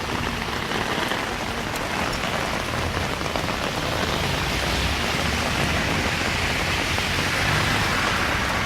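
Steady heavy rain falling, a continuous even hiss.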